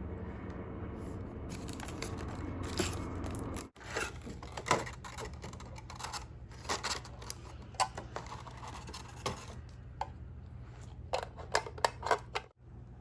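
Scraping and rustling handling sounds with scattered sharp clicks and taps, broken by two abrupt cuts, once a few seconds in and again near the end.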